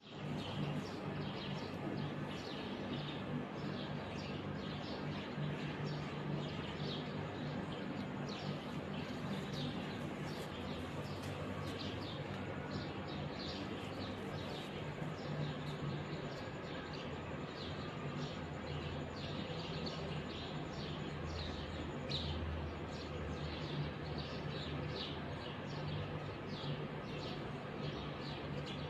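Many small birds chirping continuously in a dense chorus of short, quick chirps, over a steady low hum.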